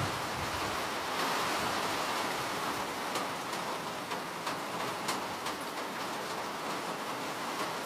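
Steady rain falling, an even hiss with scattered sharp ticks of individual drops striking, clearest from about three to six seconds in.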